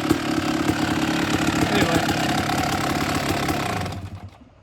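1999 Kawasaki KX250 two-stroke dirt bike engine idling steadily, then shut off about four seconds in, the sound dying away quickly.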